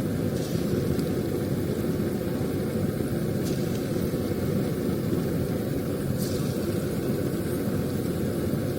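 Steady low noise from a stove with pakoras deep-frying in hot oil, with a couple of faint clicks about three and a half and six seconds in.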